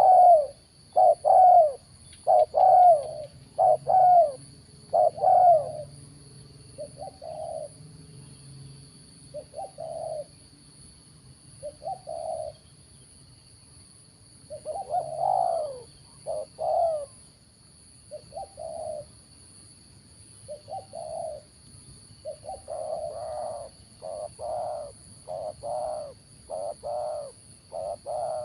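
Spotted dove cooing in repeated short calls, a close run at first, then sparser single coos, then a quicker dense series near the end. Two faint, steady high-pitched tones run underneath.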